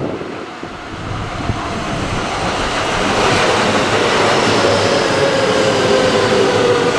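Electric passenger train passing at speed. Its noise builds from about a second in to a steady loud rush of wheels on rail, with a faint whine that sinks slightly in pitch.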